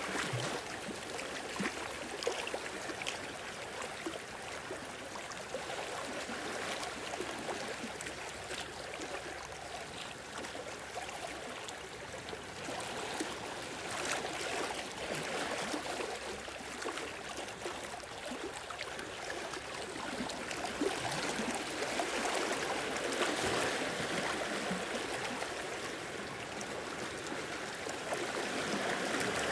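Small waves washing and lapping over rocks and shore, a continuous watery wash that swells gently a few times, with fizzing and trickling as the water drains back.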